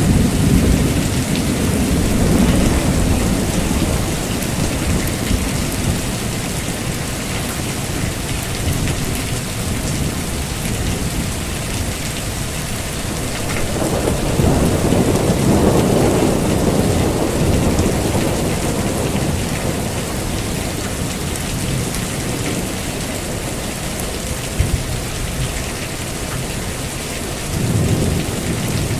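Heavy rain falling steadily, with low rumbles of thunder: one fading over the first few seconds, a longer one swelling in the middle, and another starting near the end.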